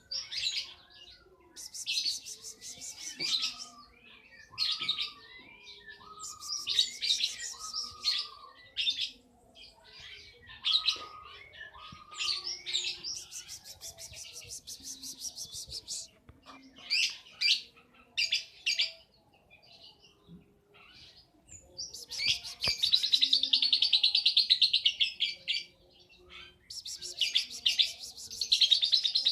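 A young lovebird chattering in repeated bursts of rapid, high-pitched trilling chirps, with short pauses between. The longest burst runs about three seconds, a little after the middle.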